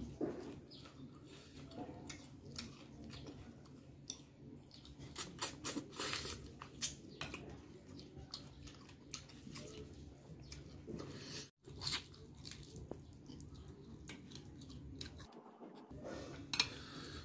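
Close-up eating sounds of a man chewing spicy chicken: irregular wet smacks, crunches and clicks from the mouth.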